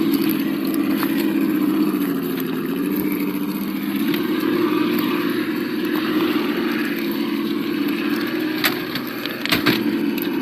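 Sound module of an Absima Yucatan 1:8 RC crawler playing a simulated engine at low revs, its pitch wavering slightly with the throttle. A few sharp clicks come near the end.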